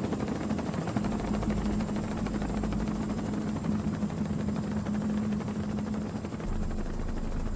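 Helicopter running steadily: an even drone of rotor and engine noise with a constant hum.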